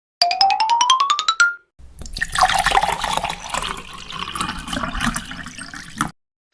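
Two sound effects in a row: a quick run of short beeping notes stepping up in pitch for about a second and ending on a held note, then, after a short gap, about four seconds of dense water-like rushing noise that cuts off suddenly.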